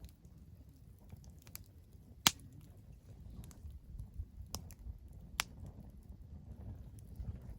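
Wood fire crackling: scattered sharp pops, the loudest about two seconds in, over a low steady rumble.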